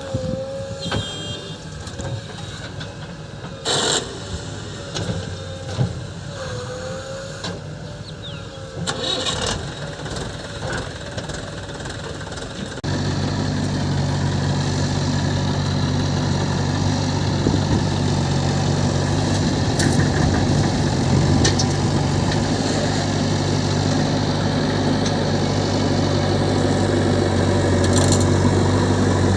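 Heavy diesel machinery running. A wavering whine with scattered knocks and clatter gives way abruptly about halfway through to a louder, steady diesel engine.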